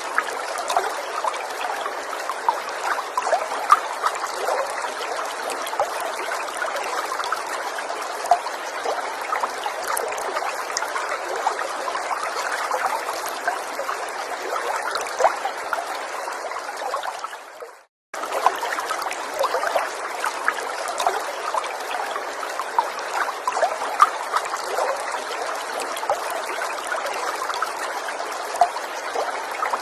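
Gentle forest stream trickling and babbling steadily, with many small splashes in the flow. About two-thirds of the way through the sound fades out to a moment of silence and then comes straight back in.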